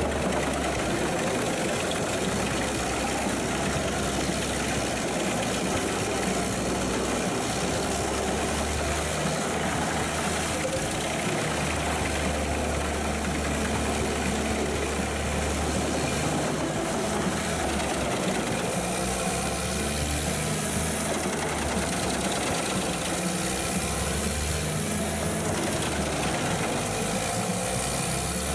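Heavy diesel engine of a Pezzolato PTH 1200/660 M wood chipper, a Caterpillar C9, running steadily under a continuous mechanical din.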